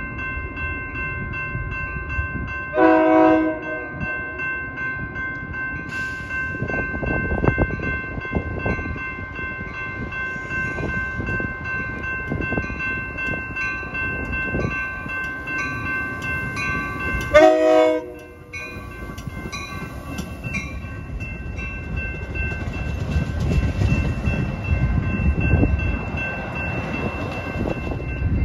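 A train running past with a steady rumble of wheels on rail. Its horn gives two short blasts, one about three seconds in and a shorter one about two-thirds of the way through. A steady high-pitched ringing sounds underneath until the second blast, then fades.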